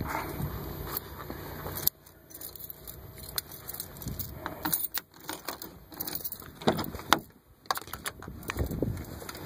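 Keys jangling and clicking at the ignition of a 1998 Dodge Ram 2500 just before a cold start, with no steady engine running heard; a steady background hum cuts off suddenly about two seconds in.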